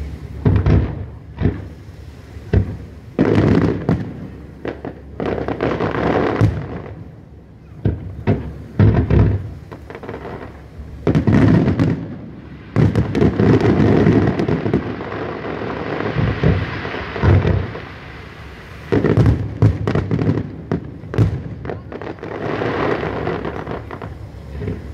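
Aerial firework shells bursting over water in quick, irregular succession. Many sharp bangs are heard, and some of them run together into longer stretches of continuous noise.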